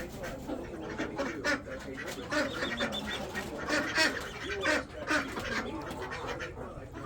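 Khaki Campbell ducks quacking and chattering in a run of short calls.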